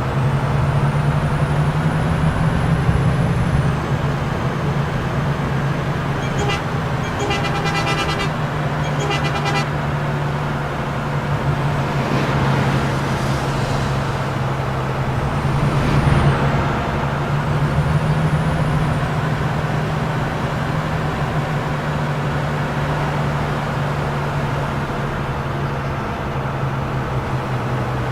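Scania K420 coach's inline-six diesel engine running under way, a steady drone with road noise that rises a little in pitch twice. A brief pulsing tone sounds about seven to nine seconds in.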